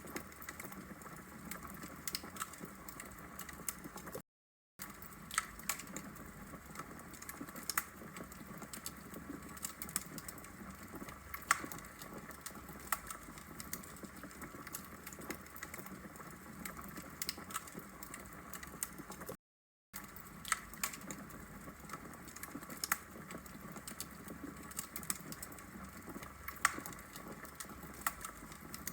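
Wood fire in a brick fireplace crackling: irregular sharp pops and snaps over a steady soft hiss of the burning logs. The sound cuts out to silence twice for about half a second, near 4 s and 19 s in.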